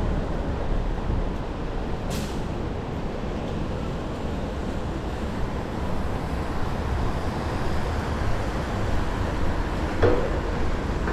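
Steady rumble of city vehicle noise, with a short hiss about two seconds in and a brief squeal near the end.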